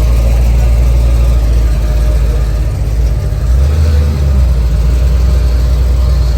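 Twin-turbo LS3 6.2-litre V8 in a 1948 DeSoto running, a loud steady low rumble. It dips briefly and shifts about three seconds in, then settles again.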